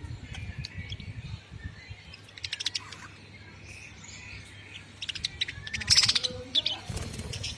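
Budgerigars chirping and chattering in quick bursts of rapid high chirps, one burst a few seconds in and a louder run of chatter later on.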